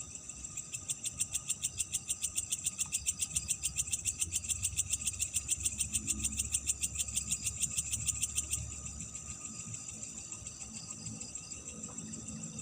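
Night insect chorus: a steady high shrill of crickets, with a loud rapid pulsing insect call of about ten pulses a second that starts just after the beginning and stops abruptly near two-thirds of the way through. A faint low rumble lies underneath.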